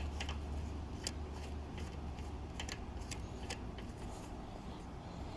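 A garden hose being handled and threaded onto a pressure washer's water inlet: a few light clicks and taps of the fittings over a low steady hum.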